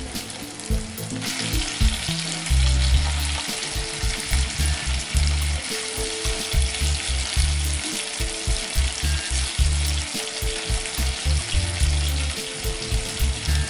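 Fish pieces and sliced onions sizzling in hot oil in a non-stick kadai while a wooden spatula stirs them. The sizzle grows louder about a second in and then holds steady.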